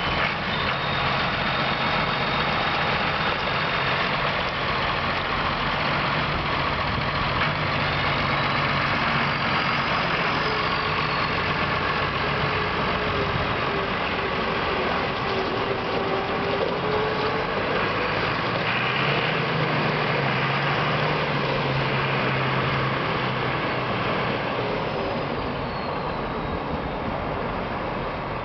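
Massey Ferguson 4270 tractor's diesel engine running steadily, with faint whines that slowly rise and fall in pitch.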